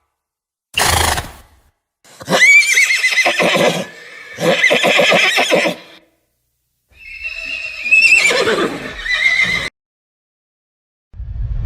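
Horse whinnying: three long, quavering neighs in a row, each several times louder than the pauses between them, after a short burst about a second in.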